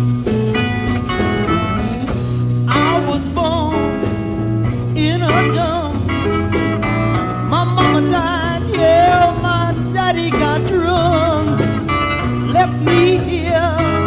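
Rock band playing live, with bass, guitar and drums. From about three seconds in, a voice sings over them with heavy vibrato.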